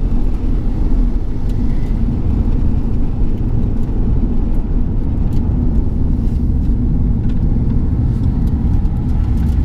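Ford Mustang GT's 5.0 V8 with an off-road X mid-pipe, heard from inside the cabin while cruising at low speed: a steady low exhaust drone with road noise and no revving.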